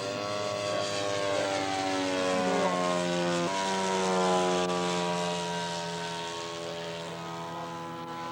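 Radio-controlled scale model airplane's engine and propeller at full power. The pitch climbs in the first second, then slides slowly down as the plane passes; it is loudest in the middle and fades toward the end.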